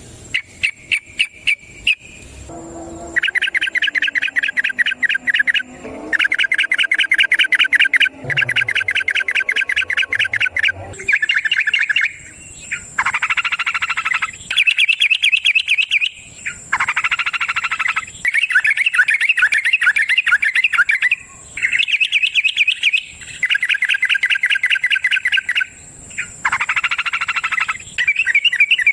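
Yellow-vented bulbul (trucukan) singing its long rapid 'ropel' song, a run of chattering bursts of quick repeated notes, each a second or two long with short pauses between them. A steady faint high tone runs underneath.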